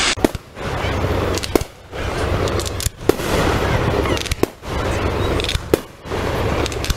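Fireworks display heard up close: sharp bangs of aerial shells bursting about every second and a half, with a steady noisy din between them.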